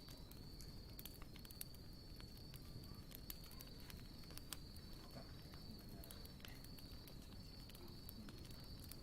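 Faint campfire crackling, with scattered sharp pops from the burning wood, over a steady high-pitched insect trill that breaks off briefly at regular intervals.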